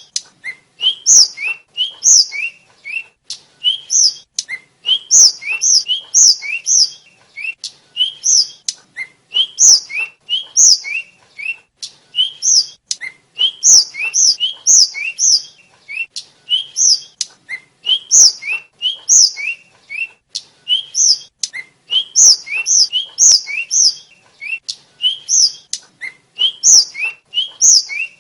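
Tledekan flycatcher singing continuously: a quick stream of short, high whistled notes, several a second, with only brief gaps.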